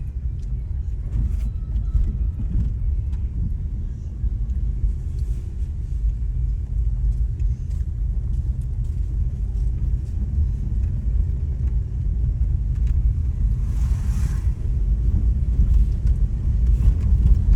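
Steady low road rumble of a moving vehicle, with a brief hiss rising over it near the end.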